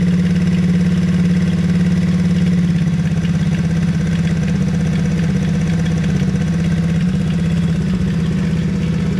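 Hawk 110cc ATV's small single-cylinder four-stroke engine running at a fast idle just after a carburetor swap. The idle is set high enough that the ATV still creeps, and it is being turned down; the tone eases slightly about three seconds in.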